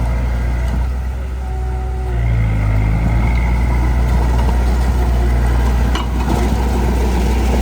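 Heavy machinery's diesel engine running steadily, easing off briefly and then revving up about two seconds in.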